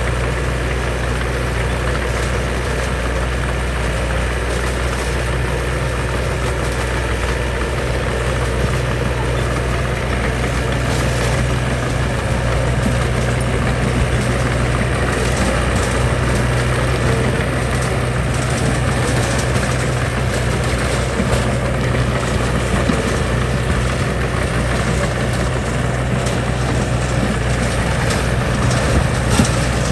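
Heavy diesel engine of earthmoving machinery running steadily, with a few sharp clanks near the end.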